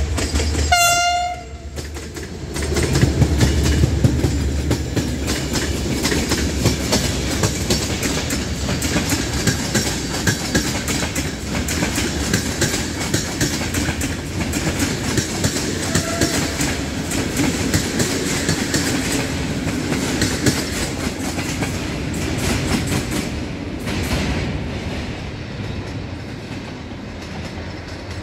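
GM diesel locomotive giving one short horn blast about a second in, then passing close by with its engine loud. The passenger coaches follow with a steady clickety-clack of wheels over the rail joints, fading as the train moves away near the end.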